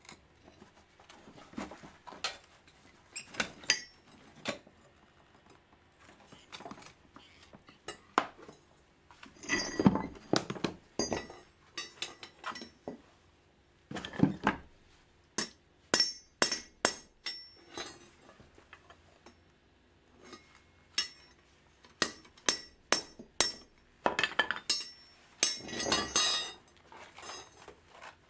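Steel rebar pieces being handled, clinking and knocking against each other and against metal, with several hits ringing briefly. The knocks come at irregular intervals.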